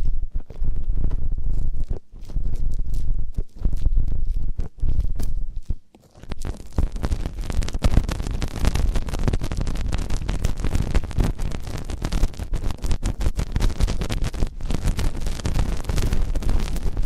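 Close-up ASMR ear-cleaning sounds on a microphone: muffled rubbing strokes with short pauses, changing about six seconds in to dense, continuous crackly scratching.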